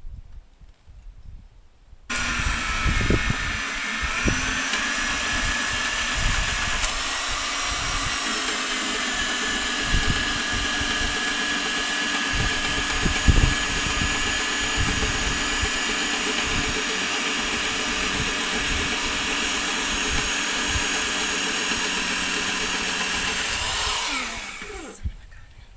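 Electric power drill running steadily under load for about twenty seconds, starting suddenly and cutting off near the end, its pitch sagging and recovering a few seconds in, with faint knocks underneath.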